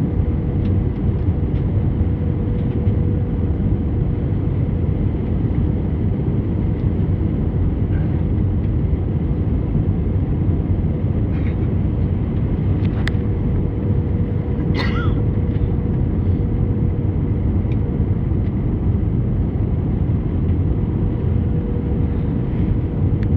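Airbus A320 cabin noise on approach: a steady low rumble of engines and airflow with a constant hum running through it. A few faint clicks come about halfway through.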